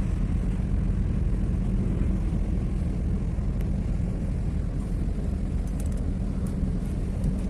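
Steady low rumble outdoors with wind noise on the microphone, plus a few faint clicks about halfway through.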